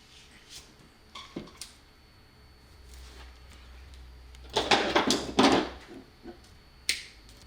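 Hand tools working electrical wire: a few light clicks, then a scraping, rasping burst lasting about a second halfway through, typical of insulation being cut and stripped, and a sharp click near the end.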